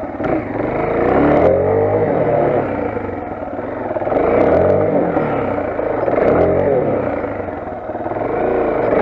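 Motoland XR 250's single-cylinder engine being ridden with the throttle opened and closed over and over, its pitch rising and falling about every two seconds.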